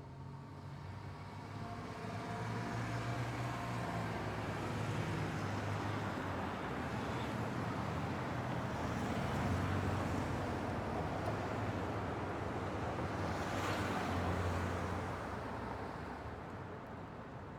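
Road traffic ambience at a bend: a continuous wash of passing vehicles, engines humming and tyres on the road. It grows louder after the first couple of seconds and fades slightly near the end.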